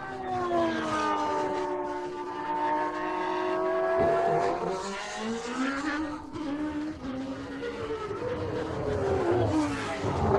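1990 Formula One car's high-revving naturally aspirated racing engine: its note falls steadily for about four seconds, then after a sharp click rises and falls repeatedly through gear changes.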